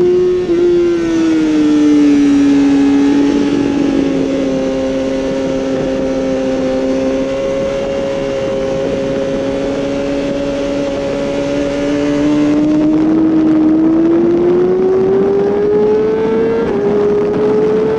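2012 BMW S1000RR's inline-four engine under way at steady revs. Over the last several seconds the revs climb smoothly, with a brief dip near the end.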